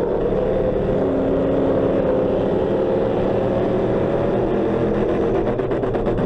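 Ford Crown Victoria race car's V8 engine running steadily under racing load, heard from inside the stripped-out cockpit, with a fast rattle near the end.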